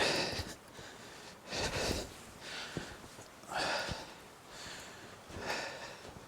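A person breathing hard while climbing a steep hill, with four loud breaths about two seconds apart.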